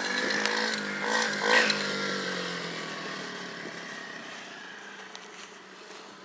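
Engine of a 110cc pocket dirt bike running as it is ridden. It revs up briefly a couple of times about a second in, then fades steadily as the bike moves away.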